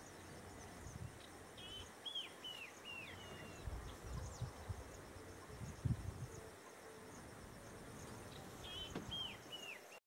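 Faint outdoor ambience with a small bird's quick runs of short, downward-sliding high call notes, once about two seconds in and again near the end. Under it run a faint steady high tone, most likely an insect, and a few low rumbles.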